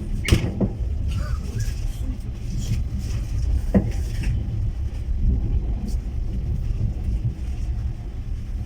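Steady low rumble of a passenger train carriage running along the track, heard from inside, with a sharp knock just after the start and another about four seconds in.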